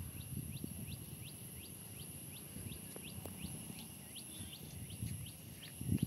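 A bird calling over and over, a series of short rising whistles at about two to three a second, over a steady high-pitched drone and a low rumble.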